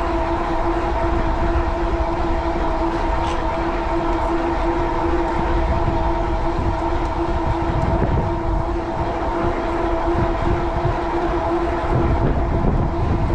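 Fat-tire e-bike cruising at about 22 mph: a steady droning hum from the bike at speed, over low wind rumble on the microphone.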